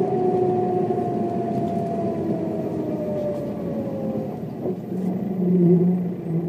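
A 1995 Mercedes-Benz O407 bus running, with a whine that falls steadily in pitch over about four seconds as it slows. About five seconds in, a lower, louder engine note comes in.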